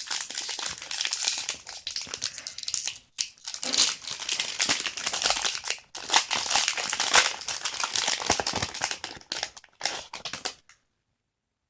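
Foil booster-pack wrapper crinkling and rustling as it is handled and opened, in several bouts with short breaks, stopping dead about ten and a half seconds in.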